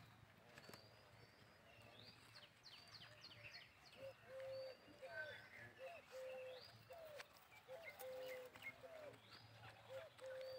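Faint birds chirping in quick short notes. From about four seconds in, a short, lower call repeats about once a second.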